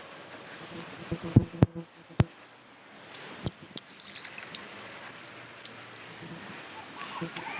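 Several sharp knocks and clicks in the first half, then light rustling and small ticks.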